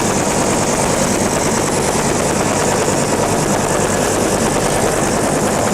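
Military helicopter running with its rotor turning: a loud, steady rotor and engine noise with a low hum underneath.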